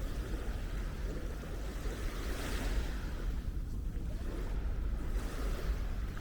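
Small Baltic waves washing onto a sandy beach, the hiss of the wash swelling twice, with wind buffeting the microphone as a steady low rumble.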